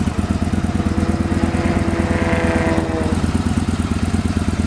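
2015 Victory Gunner's 1,731 cc air/oil-cooled V-twin idling steadily through its stock pipes. A passing vehicle swells and fades over it in the middle.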